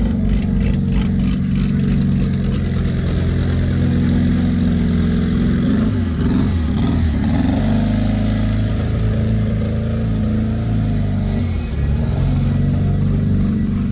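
A car engine running loud and close, its pitch dipping and rising about six seconds in as it is revved.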